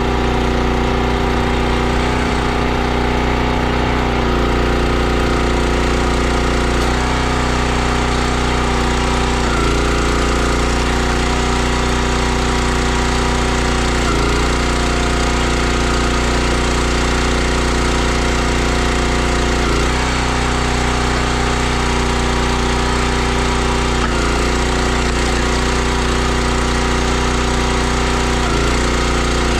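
Small gas engine of a 32-ton CountyLine log splitter running steadily, its note shifting slightly every few seconds as the splitter works.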